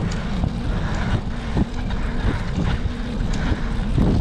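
Wind buffeting the microphone of a moving bicycle, with a steady low rumble and scattered small knocks and rattles from the bike rolling over a rough, stony surface.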